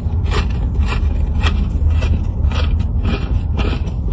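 Close-up crunching and chewing of a Reese's peanut-butter Oreo cookie, in irregular crisp crunches about twice a second. A steady low rumble runs underneath.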